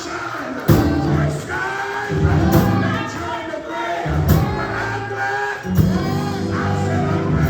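Church music: sustained keyboard or organ chords under singing voices, with a sharp hit about every two seconds.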